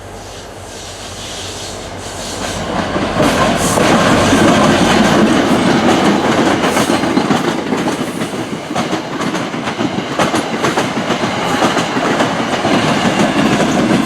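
Passenger train passing close by at speed, its wheels clicking rapidly over rail joints. It builds over the first three seconds and stays loud through the rest of the pass.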